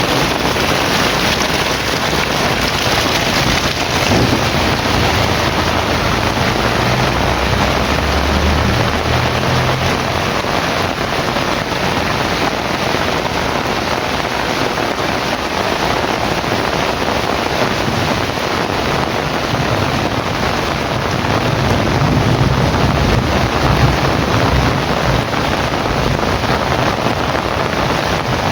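Heavy rain pouring steadily, with low thunder rumbling twice: once from about 4 s in and again in the last third.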